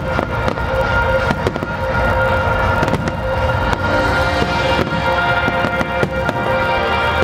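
Fireworks going off in many quick cracks and pops, over loud music from the show's sound system.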